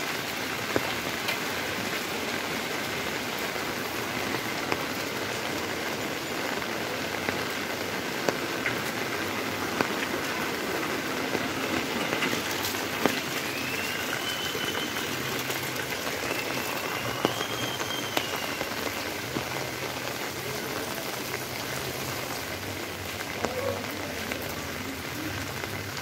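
Steady monsoon rain pouring on a wet street, with scattered sharp drop hits close by.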